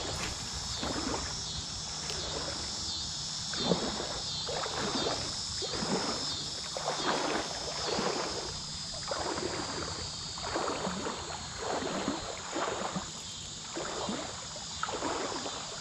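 Creek water sloshing and splashing in regular surges about once a second, typical of someone wading through a shallow creek.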